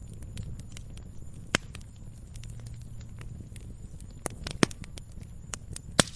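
Campfire crackling: a low steady rumble of burning wood with many small ticks and a few sharp pops, the loudest about a second and a half in, two more around four and a half seconds, and one at the very end.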